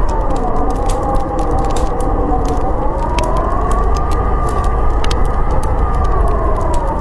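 Howling storm wind: a wavering whistle that slowly rises and falls in pitch over a deep, steady rumble, with a wood fire crackling and popping throughout.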